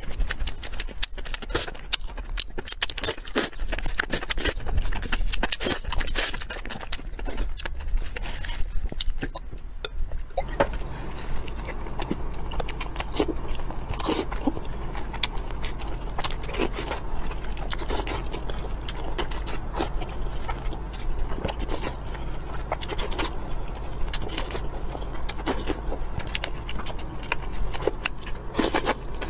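Close-miked mukbang eating sounds: crisp crackling and crunching of dried seaweed sheets being chewed, made of dense rapid clicks. About ten seconds in the sound changes to sparser crunching and chewing of seafood and crisp lettuce over a steady low hum.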